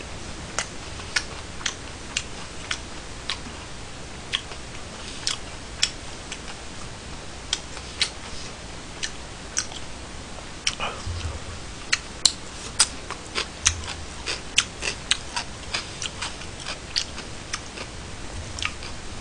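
Close-miked chewing of food with sharp, irregular crunches and crackles, about one or two a second at first and coming faster about halfway through.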